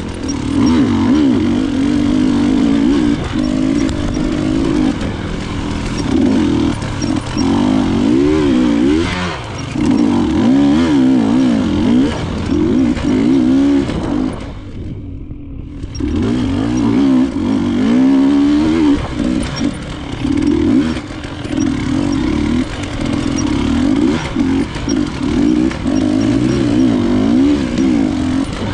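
Enduro dirt bike engine on an off-road trail, its pitch rising and falling constantly as the throttle is worked. About halfway through it briefly drops off, then picks back up.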